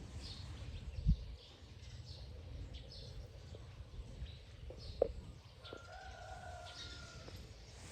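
Small birds chirping on and off, over a low steady rumble. A dull thump comes about a second in, a sharp click about five seconds in, and near the end a level whistled note is held for about a second and a half.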